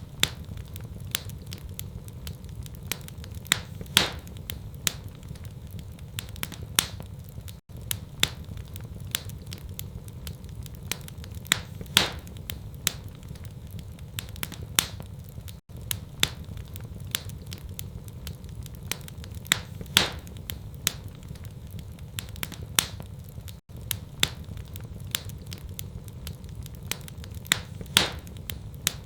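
Wood fire in a fireplace crackling and popping over a steady low rumble, with sharp snaps every second or so. The same eight-second stretch repeats in a loop, with a brief dropout at each seam.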